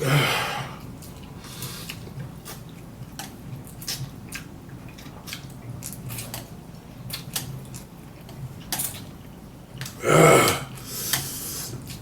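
Close-up eating sounds of spicy noodles: wet chewing and smacking with many short clicks throughout, and a louder breathy burst at the start and again about ten seconds in.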